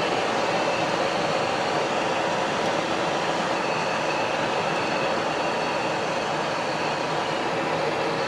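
Steady cockpit noise of a Cessna Citation XLS jet in flight: an even rush of airflow and engine noise, with a faint steady whine.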